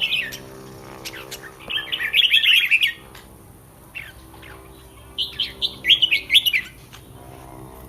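Red-whiskered bulbul singing: two bursts of quick, warbling whistled phrases, about two and five seconds in, with a few short single notes between.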